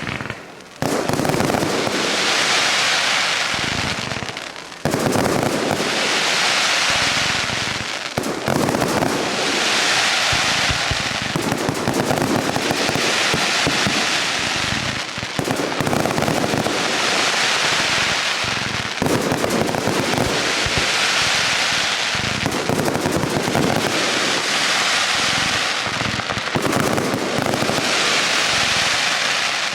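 Fireworks display in full barrage: continuous bangs overlaid with crackling bursts that swell up every few seconds, with loud bangs about a second in and again about five seconds in.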